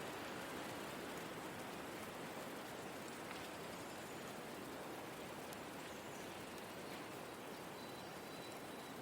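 Forest ambience soundscape: a steady, even hiss of soft wind or rain-like noise that does not change, with a faint thin high tone late on.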